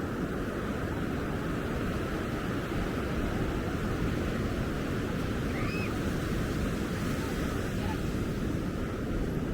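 Surf washing and breaking steadily on an ocean beach, with one short high chirp a little past halfway.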